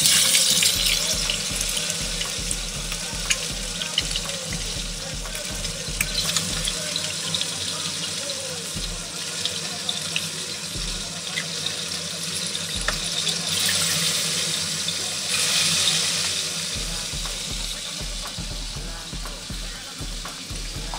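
Raw chicken pieces sizzling as they are laid into hot oil in a stainless steel frying pan, a steady hiss with light clicks of metal tongs against the pan and bowl.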